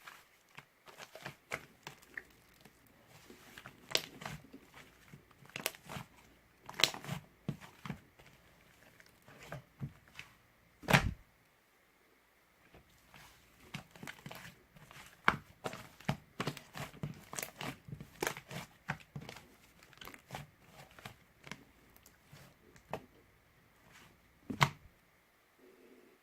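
Irregular clicks, taps and crinkles of something being handled at close range, with one sharp, louder knock about eleven seconds in.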